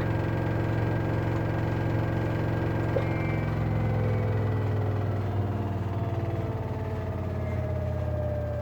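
LG washer-dryer running its spin near the end of the wash cycle: a steady low hum, with a whine that slowly falls in pitch through the second half as the drum slows.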